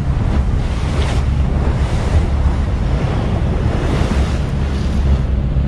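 Wind buffeting the microphone over steady rushing and splashing water, with a heavy low rumble throughout.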